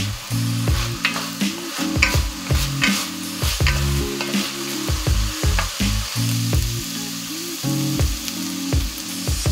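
Ground meat sizzling as it fries in oil in an enamelled cast-iron pot, with the scrape of a wooden spoon stirring it about once or twice a second. Background music plays underneath.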